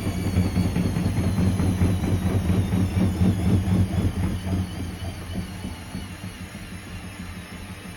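Hoover washing machine on its spin with a badly unbalanced load: the drum bangs and rattles rapidly over a loud hum. About four and a half seconds in, the hum cuts out and the noise dies away steadily as the drum winds down.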